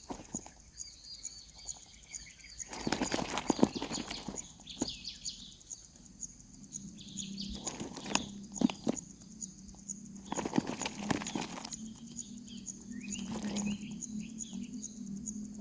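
Nestlings' short high chirping calls in a few bouts, between spells of scratching and knocking as the birds scramble in the nest.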